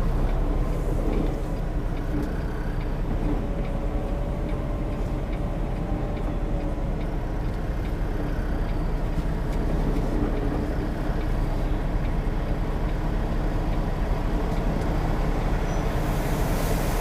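Semi-truck's diesel engine running steadily with a low drone, heard from the truck. A hiss comes up near the end.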